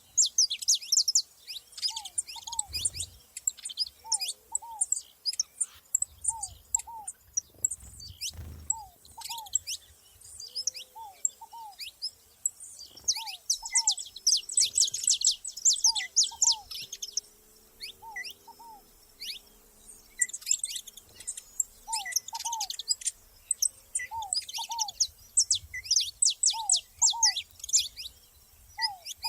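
Saffron finches chirping in quick runs of high notes. Beneath them, a lower two-note call repeats every two seconds or so.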